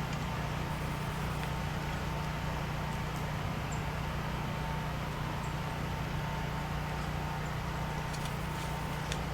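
Steady machine hum with a fainter high tone over it, and a few light clicks near the end.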